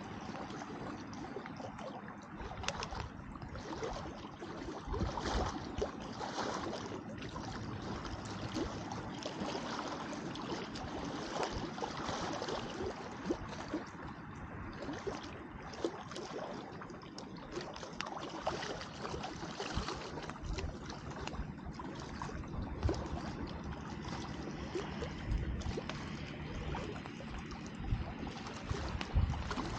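Wood campfire crackling, with frequent small sharp pops scattered irregularly, over small waves lapping steadily at the shore.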